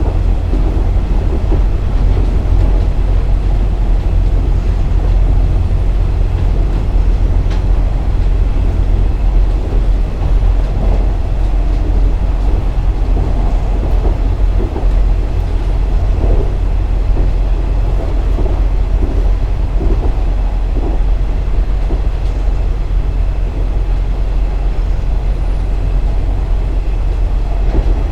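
KiHa 47 diesel railcar running along the line: a steady, heavy rumble of its diesel engine and wheels on the rails.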